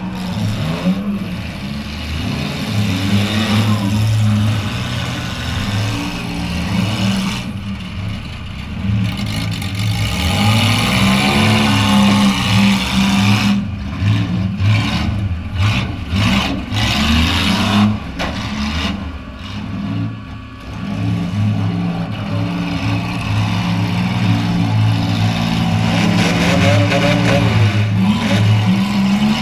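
Demolition derby car's engine running and revving up and down several times, heard from inside the stripped-out cabin. A run of sharp knocks and clatter comes about halfway through.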